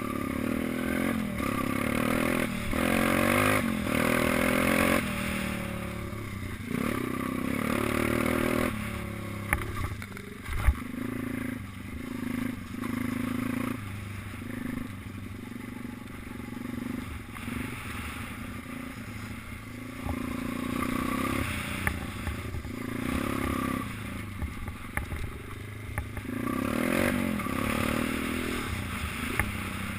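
Small minibike engine running and revving up and down repeatedly as it is ridden, with a few sharp knocks and some clatter about ten seconds in.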